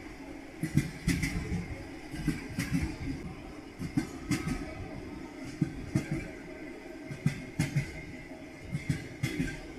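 Train wheels clattering over rail joints, knocking in pairs about every second and a half over a steady rumble of the running train.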